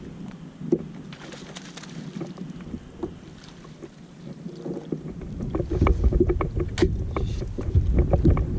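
Scattered light knocks and clicks on a small fishing boat, with wind buffeting the microphone from about halfway through.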